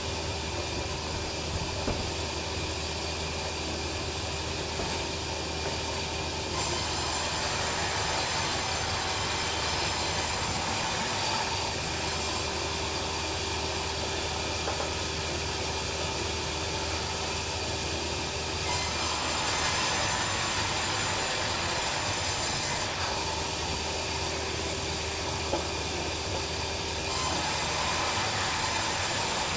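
Bandsaw mill running steadily with a constant hum. Three times it turns louder and hissier for about four seconds as the blade saws through the log.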